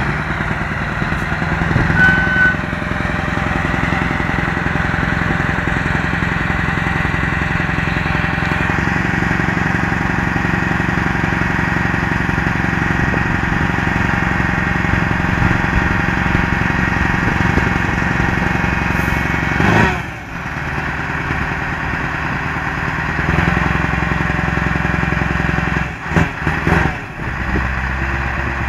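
Scania 164L V8 diesel truck engine running steadily at low revs, with the level dipping briefly about two-thirds of the way through and a few more short dips near the end. A short single beep sounds about two seconds in.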